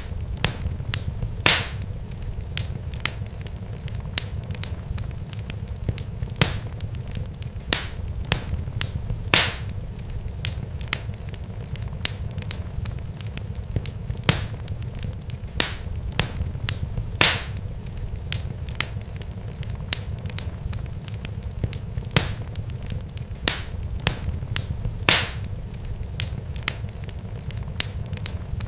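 Irregular sharp pops and crackles, several a second with a louder snap every few seconds, over a steady low rumble.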